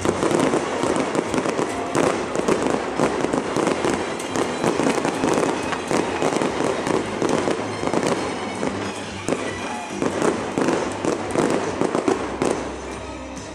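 Aerial fireworks going off in a rapid string of bangs and crackles, with music playing underneath.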